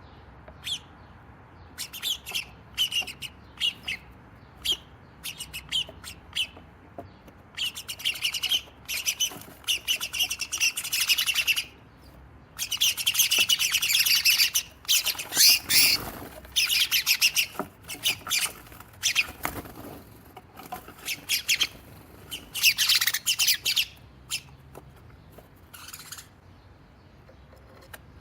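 Several sparrows chirping and chattering noisily in an agitated squabble. Scattered chirps build into long rapid chattering runs in the middle, then thin out near the end.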